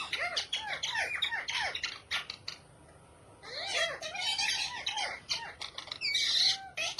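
Parrot squawking and chattering in quick runs of short arched calls, with a pause about halfway through and a louder, harsher squawk near the end.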